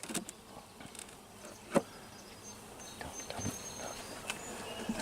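Honey bees buzzing around an opened hive, with a few sharp knocks, the loudest about two seconds in, as a glued-down hive box is worked loose.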